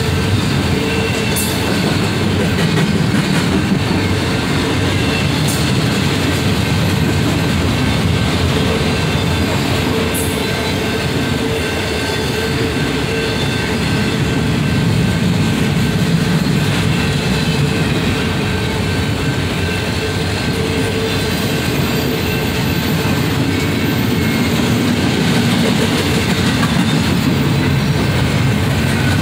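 Freight train cars rolling past, gondolas and intermodal well cars: a loud, steady rumble of steel wheels on rail with a thin, steady wheel squeal running through it.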